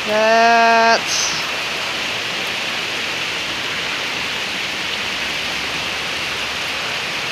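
Heavy rain falling steadily in a downpour. About the first second is covered by a loud, steady pitched note that cuts off suddenly.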